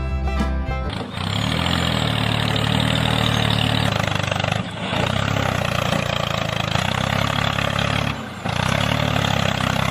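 A mini tractor's motor running steadily, with two brief breaks in the sound.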